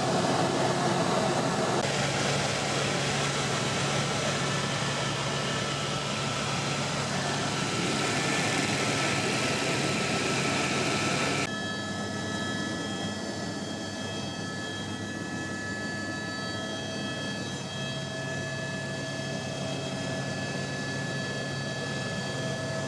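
Helicopter running steadily in flight: continuous engine and rotor noise with steady whining tones. About halfway through the sound changes abruptly, growing a little quieter and less hissy so that the whine stands out.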